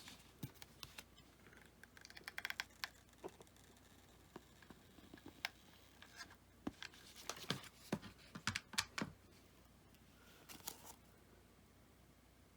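Faint handling noises of foam-board pieces being positioned on a base: scattered light taps and clicks, with a quick cluster of them about two and a half seconds in and again around seven to nine seconds, and a soft rustle near the end.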